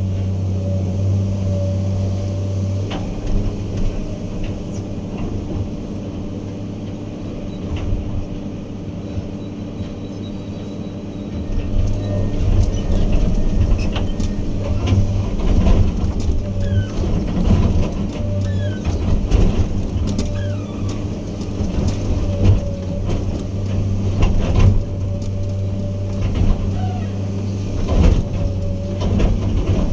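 Heavy earthmoving machine's diesel engine running steadily. About twelve seconds in it grows louder under load, with repeated knocks and clatter of metal and material.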